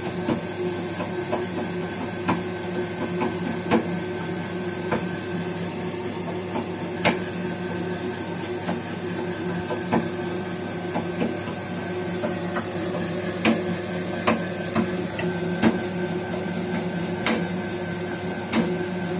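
Baxi gas boiler running with a steady hum, broken by irregular sharp knocks, roughly one every one to three seconds, a few louder than the rest. The owner places the knocking in the heat exchanger.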